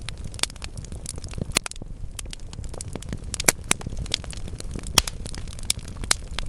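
Wood fire burning in a fireplace: logs crackling with irregular sharp pops over a low steady rumble of the flames, the loudest pops about three and a half and five seconds in.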